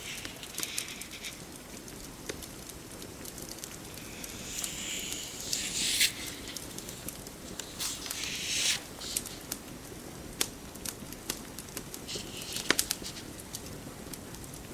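Rain pattering steadily under a crackling fireplace, with sharp pops scattered throughout. A few soft papery swishes come through, the loudest a little over halfway through: book pages being turned.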